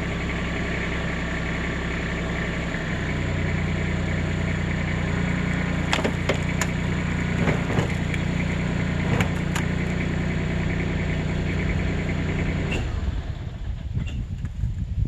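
A motor engine idling steadily, its speed stepping up slightly about three seconds in, with a few sharp knocks and clicks over it. The engine shuts off a couple of seconds before the end, leaving a rustling outdoor background.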